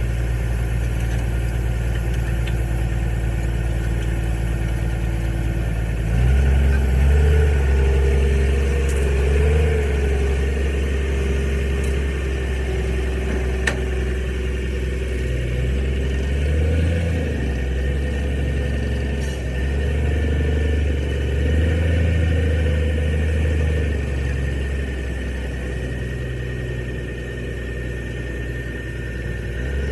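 Truck engine running at idle, then picking up about six seconds in and running on at raised, uneven speed, its pitch rising and falling.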